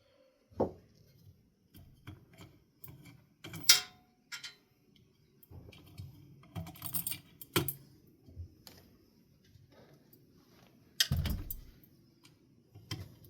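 Scattered small metallic clicks, clinks and knocks of parts and hardware being handled, with a sharp click near the middle and a duller thump about three-quarters of the way through.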